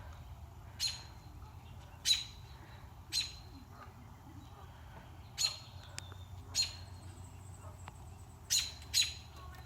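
A bird giving short, harsh squawking calls, seven in all and about one every second or so, with two close together near the end. These are alarm calls that the filmer puts down to the bird's nest nearby.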